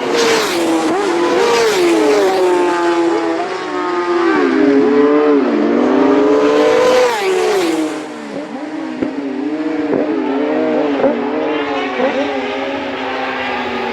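Road-racing motorcycles going past at speed, their engine notes rising and falling in pitch with the throttle and gear changes. The loudest passes come right at the start and again about six to seven seconds in, and after that the engine notes waver up and down.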